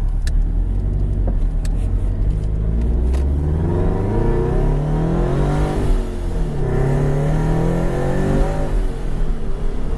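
Boxer four-cylinder car engine with a modified exhaust accelerating hard: revs climb, drop at an upshift about six seconds in, climb again through the next gear and fall away near the end.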